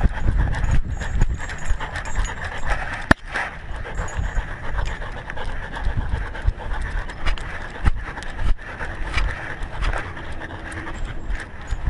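A dog panting right at a collar-mounted camera as it walks, with the collar rubbing against the microphone and a few sharp clicks.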